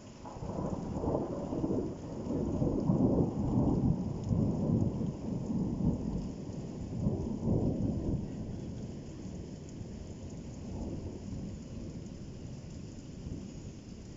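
A long rolling peal of thunder breaks at the start, rumbling in surges for about eight seconds and then slowly dying away, with rain falling throughout.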